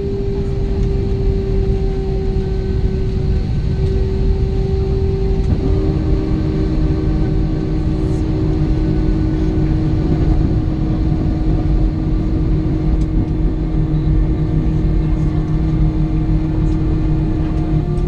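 Airbus A320 cabin noise from inside the cabin: a steady rumble and rush from the engines and airflow, with a steady engine hum that drops to a lower pitch about six seconds in.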